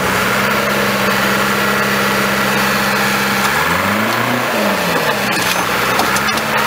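Heavy equipment engine running steadily, revving up and back down once about four seconds in, with a couple of sharp clicks near the end.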